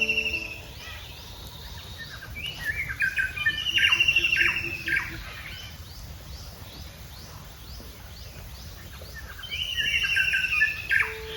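Small birds singing in two bursts of quick chirps and trills, one about two seconds in and another near the end, over a steady low background hiss.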